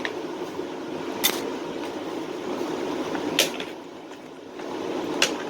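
A steady fan-like hum with three sharp clicks about two seconds apart, as small tool pieces are handled; the hum dips briefly just before the last click.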